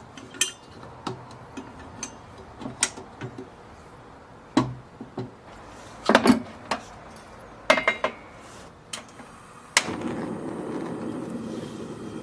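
A series of sharp knocks and clinks, like objects being handled and set down, then a steadier noise from about ten seconds in.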